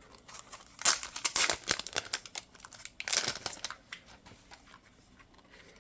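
Packaging of a Polaroid photo set being opened by hand, rustling and tearing in two spells, about a second in and again around three seconds.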